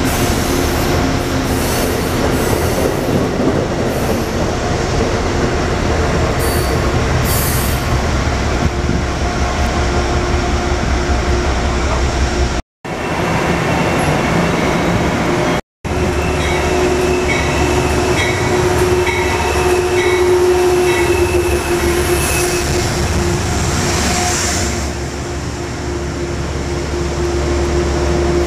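Passenger trains rolling past a station platform: a steady loud rumble of cars and wheels on the rails, with scattered high wheel squeals and a steady hum in the later part. Two brief silent breaks cut it up.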